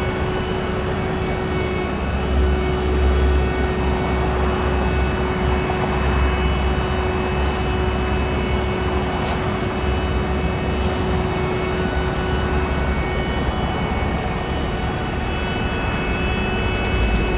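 Heavy diesel road-paving machinery running steadily: a deep engine rumble with a constant whine held over it.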